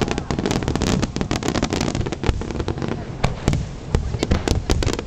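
Aerial fireworks display: a dense, continuous crackle of many sharp reports, several a second, over the deep rumble of shell bursts.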